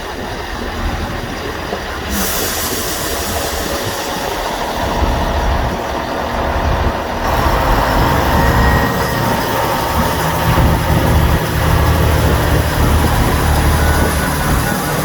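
Diesel passenger train pulling out of the station alongside, its engine rumble and transmission whine building and getting louder as it moves off.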